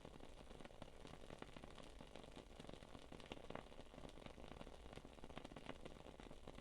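Wood-wick candle burning, its wooden wick giving off a faint, continuous run of small irregular crackles and pops like a tiny campfire.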